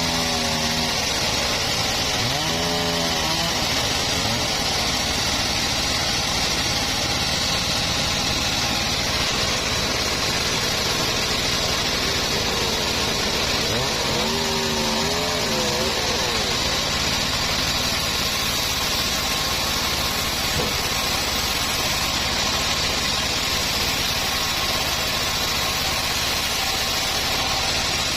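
Home-built bandsaw mill running steadily while sawing acacia wood, a loud continuous machine noise with a pitched drone that wavers briefly near the start and again around the middle.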